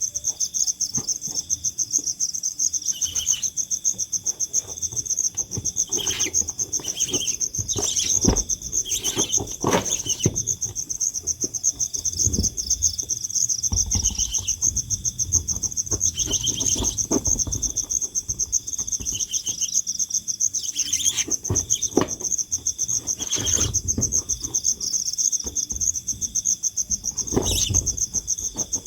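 Insects trilling steadily, a continuous fast-pulsing high chirr, with scattered short clicks and rustles throughout.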